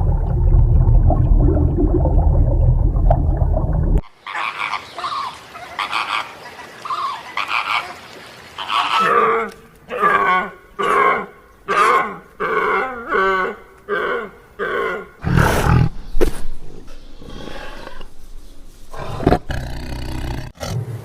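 Recorded animal calls, one clip after another: a loud, deep, rough call for about four seconds that cuts off suddenly, then a series of short pitched calls roughly one a second, and a brief loud burst near the end.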